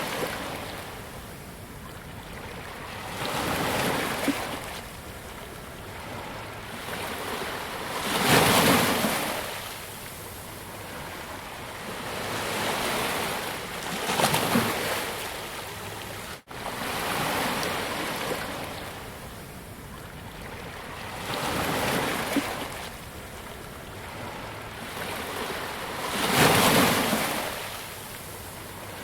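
Sea waves breaking on a beach: a continuous rushing wash that swells and falls every few seconds, with the biggest breakers about a third of the way in and near the end. There is a brief dropout about sixteen seconds in.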